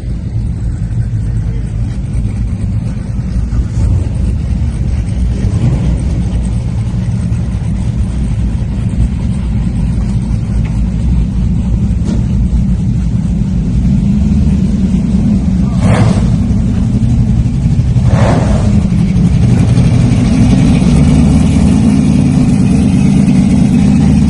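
Classic car engine running close by with a deep, steady rumble that grows louder over the last third. Two brief sharp sounds cut through, about two seconds apart, near the end.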